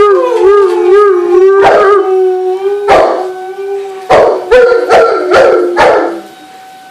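Dog howling in a long, wavering, siren-like note, broken by several short yips in the second half; the howl stops about six seconds in.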